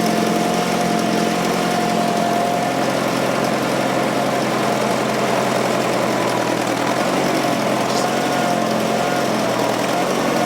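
Fordson Super Major backhoe's 3.6-litre four-cylinder diesel engine running steadily. A high, steady whine rides over it, wavering slightly in pitch.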